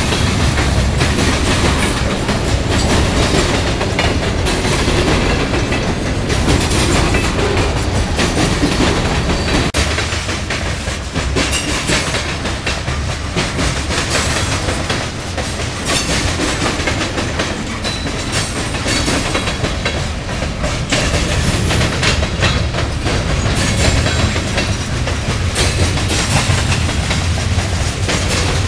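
Canadian Pacific freight train of tank cars, covered hoppers and boxcars rolling steadily past, a continuous rumble of wheels on rail with repeated clickety-clack as the wheels cross the rail joints.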